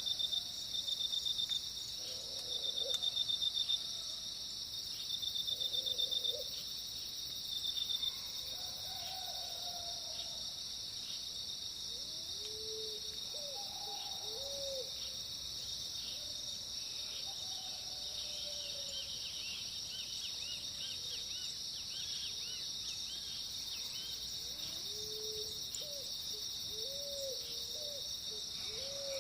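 Dawn chorus: a steady high-pitched insect drone underneath, with birds calling over it in short repeated low notes that rise and fall. Several louder pulsed bursts come in the first eight seconds.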